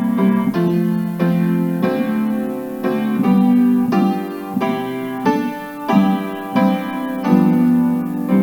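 Piano playing a hymn in slow, full block chords, a new chord struck about every half to three-quarters of a second.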